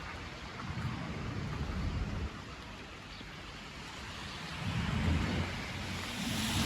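Wind buffeting the microphone: a rumbling rush of noise that swells and eases, strongest around the middle and again near the end.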